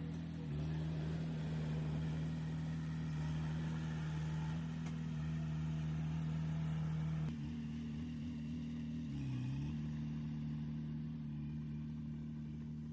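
Heavy diesel engine running steadily. Its note shifts slightly lower about seven seconds in, dips briefly near nine seconds and then comes back up.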